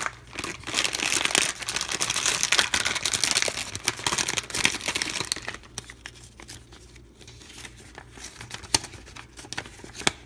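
Crinkling of a blind-bag wrapper as it is opened, loud and dense for about the first five seconds. Then comes quieter rustling with a few sharp clicks.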